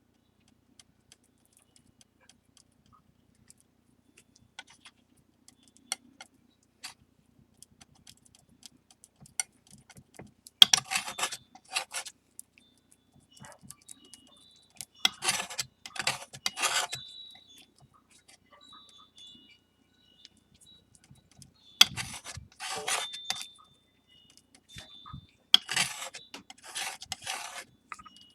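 A tool scraping and mixing a paste of flour, water and base lacquer on a tray, the mix for lacquer kintsugi. Faint scattered ticks at first, then four spells of brisk scraping strokes, each a few strokes long.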